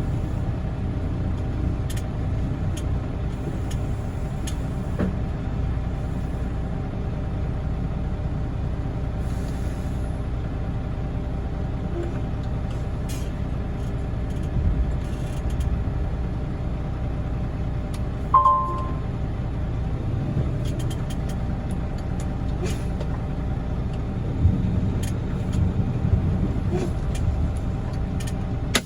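Semi truck's diesel engine running steadily as the truck is driven off dirt onto hard ground, with a short high beep about 18 seconds in.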